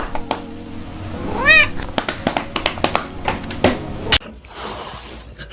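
A kitten gives one short meow about a second and a half in, amid many small sharp clicks and taps. Near the end the sound cuts to a hissing noise.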